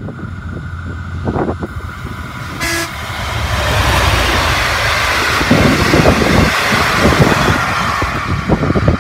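A diesel locomotive hauling passenger carriages gives a brief horn toot about a third of the way in, then passes close by: engine rumble and the rising rush and clatter of wheels on rail as the carriages roll past.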